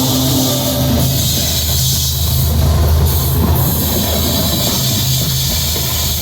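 CSX ET44AH diesel locomotive passing at close range, a steady deep engine rumble mixed with the hiss of wheels on rail.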